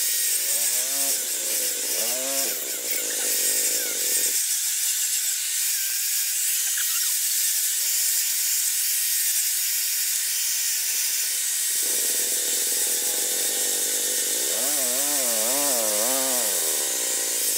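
A power tool working steel, a steady harsh high-pitched hiss, with a wavering lower tone at times.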